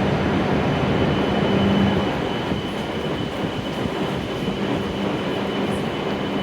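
A stopped W7 series Shinkansen train humming steadily at the platform: a steady rushing noise with a low hum and a faint thin high whine, easing slightly about two seconds in.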